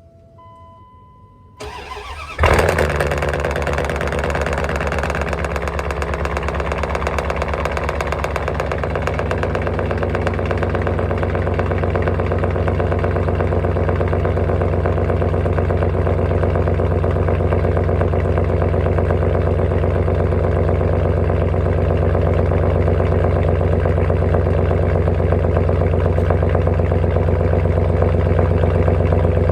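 Second-generation Ram 1500 with true dual exhaust through a Cherry Bomb Extreme muffler being cold-started in sub-zero weather. A few short chime beeps come first, then a brief crank, and the engine catches about two and a half seconds in with a loud flare. It then settles into a steady idle that grows slightly louder.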